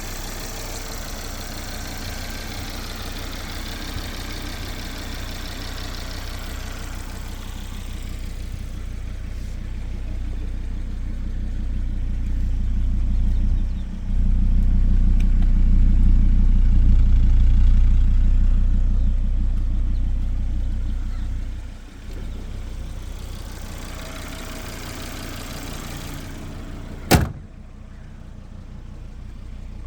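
Volvo V70R's turbocharged five-cylinder engine running: steady at first, growing louder from about a quarter of the way in, holding loudest through the middle, then dropping back abruptly to a quieter steady run. One sharp knock near the end.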